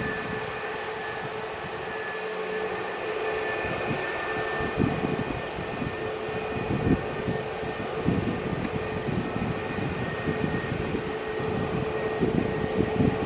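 Airbus A320neo jet engines running with a steady whine, heard over irregular low buffeting of wind on the microphone.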